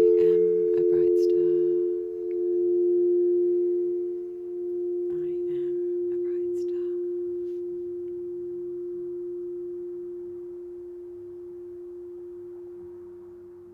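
Two steady metallic ringing tones close in pitch, pulsing slowly against each other, from a sound-healing instrument. The higher tone dies away about five or six seconds in, while the lower one rings on and slowly fades. A few faint clicks come near the start and again around the middle.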